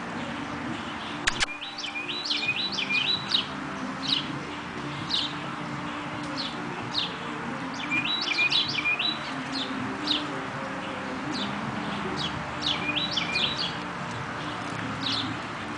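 Small birds chirping over and over, with a quick stepped song phrase repeated three times, in a mix of birds. A single sharp click comes about a second and a half in.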